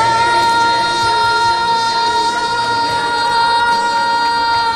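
Female singer holding one long, steady high note on the last word of a Mandarin pop song, over backing music.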